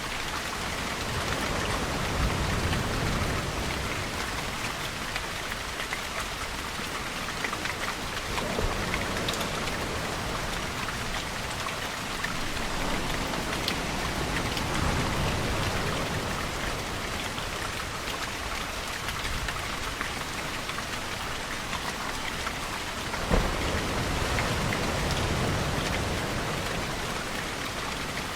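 Steady rain falling, with low swells that rise and fade every ten seconds or so. One sharp tap stands out a little after twenty-three seconds in.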